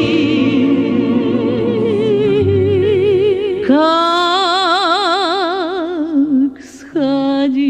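A singing voice holding long notes with wide, even vibrato in a Russian romance, over a low steady accompaniment. A new note starts about halfway through, and after a brief break near the end another held note begins.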